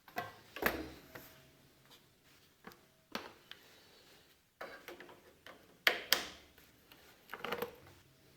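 Scattered clicks, clanks and knocks of hands-on work at the tractor as a jump pack is hooked up to it, with the loudest knocks under a second in and about six seconds in. The engine is not running.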